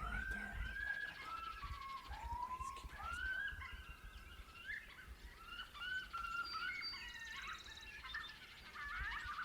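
Coyote yips and howls: many overlapping high calls that rise and fall, running on without a break.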